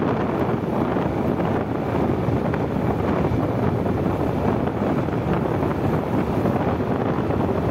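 Steady wind rushing over the microphone of a phone mounted on a motorcycle rider's helmet while riding, with the motorcycle's road noise underneath.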